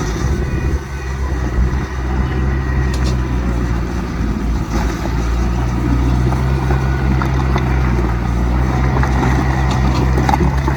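Heavy diesel engine of earthmoving machinery running steadily with a deep low hum, with a few faint knocks over it.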